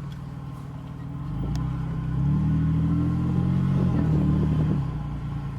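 Car engine accelerating: its low note grows louder from about a second in, then holds steady.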